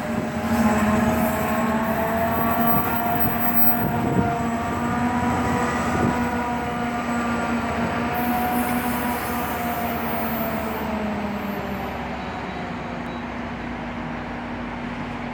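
Train running past, a steady low hum with fainter wavering tones above it, gradually getting quieter.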